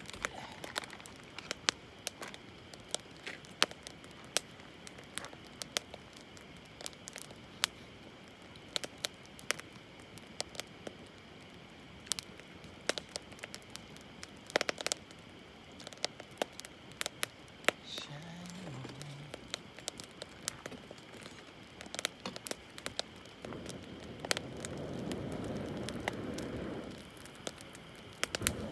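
Wood campfire crackling, with frequent sharp pops scattered irregularly throughout. A soft rushing noise swells for a few seconds near the end.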